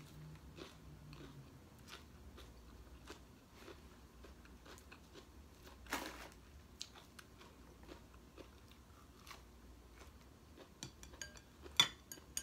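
A person chewing and crunching a crisp raw vegetable close to the microphone, with soft, irregular crackles and mouth clicks. Near the end comes a cluster of sharp clicks, one of them loud.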